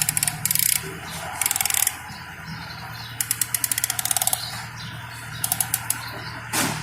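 Ratchet wrench being worked in short strokes: five quick runs of rapid, even clicking, over a steady low hum. A single sharp knock near the end.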